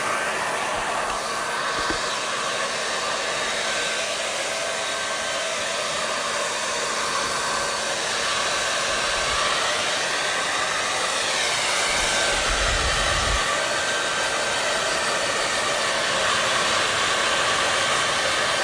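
Hair dryer running steadily, an even blowing hiss at constant strength, with a brief low rumble about twelve seconds in.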